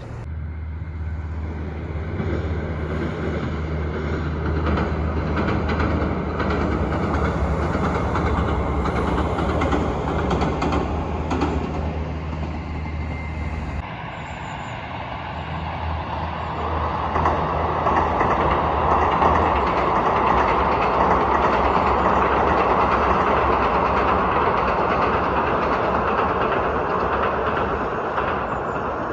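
Trains passing over jointed track, their wheels clattering over the rail joints. About halfway through, the sound changes abruptly to a second pass, with a louder, building rush of wheel and rail noise.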